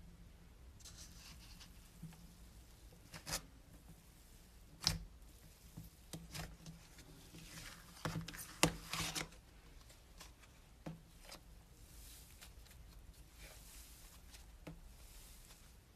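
Objects being handled close by: scattered sharp clicks and taps, with bursts of rustling and scraping, the loudest cluster about eight to nine seconds in.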